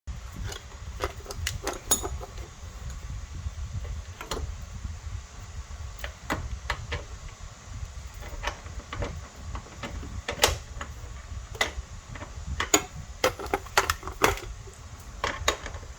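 Irregular clicks, clacks and knocks, some sharp and some dull, over a steady low rumble.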